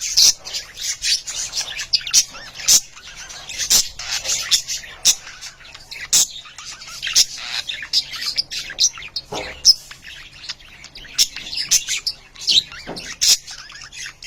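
Budgerigars chattering and chirping continuously, a dense run of many short, high chirps overlapping without pause.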